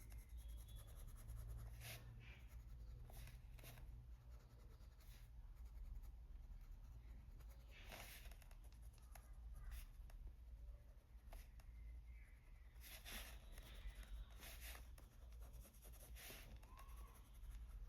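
Faint scratching of a Polychromos coloured pencil on paper, with soft strokes every few seconds as dark indigo shading is blended out with a mid-tone pink.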